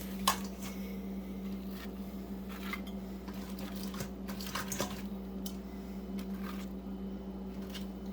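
Pieces of fried chicken being handled and set onto a plate: scattered light clicks and soft squishing of food and utensils against the dish, the sharpest click just after the start, over a steady low hum.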